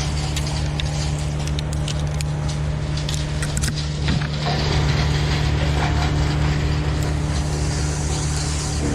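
A large engine running steadily at a constant speed, with scattered sharp clicks and crackles over the first few seconds.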